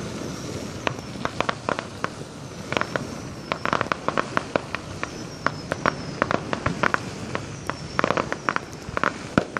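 Consumer fireworks crackling and popping: many sharp, irregular cracks, bunched most densely about four seconds in and again near the end.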